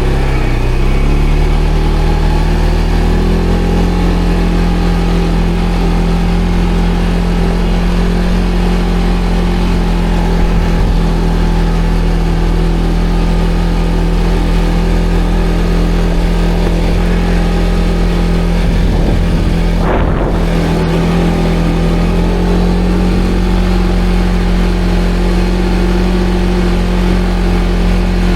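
ATV engine running steadily at a low, even pace, its note rising slightly in the first couple of seconds and then holding, with a brief change in the note about twenty seconds in.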